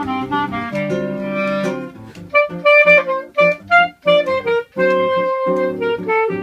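Clarinet playing a choro melody over seven-string guitar accompaniment. Through the middle the phrase breaks into short detached notes with brief gaps, then goes back to held notes.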